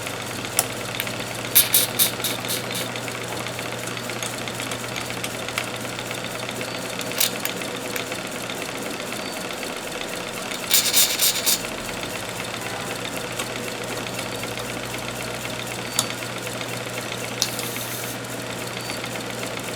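Small Bolton mill steam engine running steadily just after start-up, with short hissing spurts of steam a few times as its drain valves clear condensate from the steam chest and cylinder.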